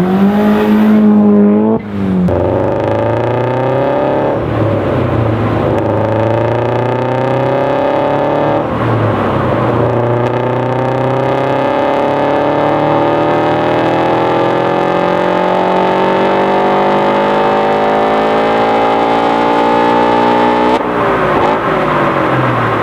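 Car engine on a chassis dyno at wide-open throttle, pulling up through the gears. The pitch climbs and drops back at each shift in the first nine seconds, then climbs steadily in one long pull for about twelve seconds before the throttle is lifted near the end.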